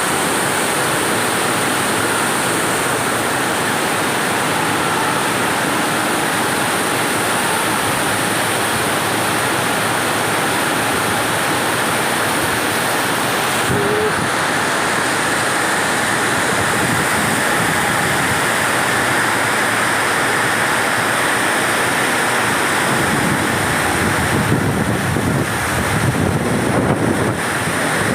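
Heavy rain falling in a steady, dense hiss, with a low uneven rumble rising in the last few seconds.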